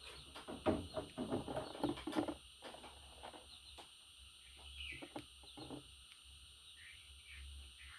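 Pet budgerigar chattering and warbling in a quick run of short notes for about two seconds, then a scattering of single chirps.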